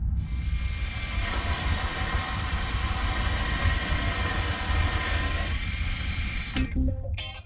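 A loud steady hiss over a low rumble. It stops abruptly about six and a half seconds in.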